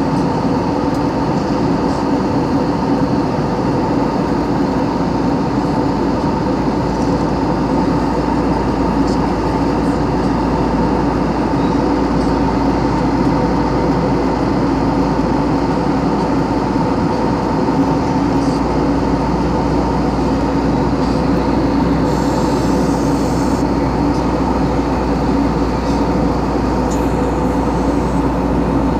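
Airliner cabin noise in flight: a steady, loud rush of air and engine noise with a constant droning hum.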